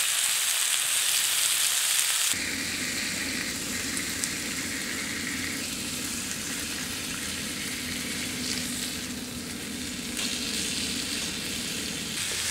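Fish fillets and onions sizzling as they fry in a pan over a spirit (alcohol) stove. About two seconds in, the sizzle abruptly turns quieter and a low rumble comes in underneath.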